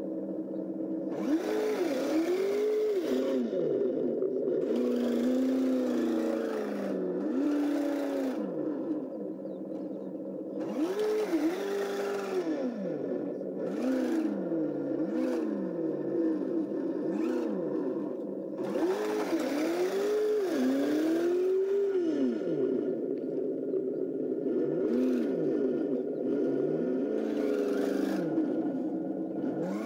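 Electronic engine-sound system on a 1/12 Kyosho Blizzard DX RC snowcat, its simulated engine note rising and falling in pitch again and again as the throttle is worked. Intermittent bursts of higher-pitched whirring noise from the drive come and go with it.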